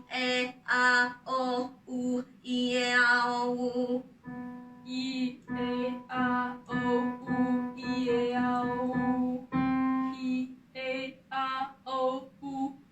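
A woman singing a song melody in short phrases, with soft instrumental accompaniment.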